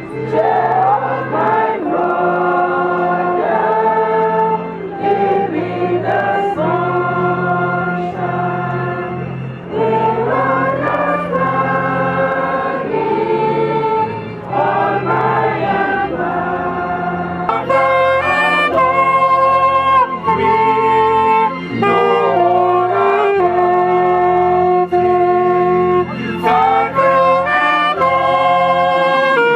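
Gospel music: a choir singing over instrumental backing with a steady bass line.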